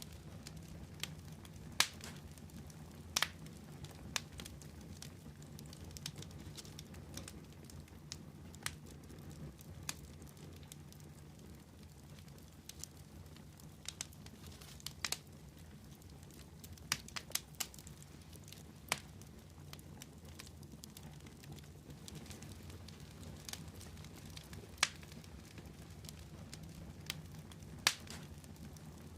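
Wood fire burning with a low steady rumble, broken by sharp pops and crackles at irregular intervals, a few seconds apart.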